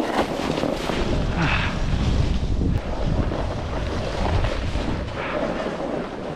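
Wind buffeting the microphone while snowboarding, a heavy low rumble, with the board scraping across snow in a couple of brief surges.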